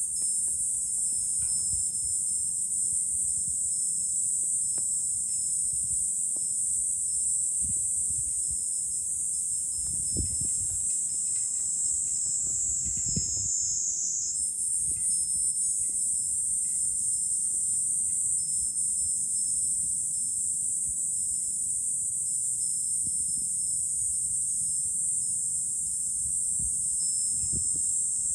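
Summer cicada chorus: a dense, steady, high-pitched drone that changes character about halfway through, with a few soft low rumbles of wind on the microphone.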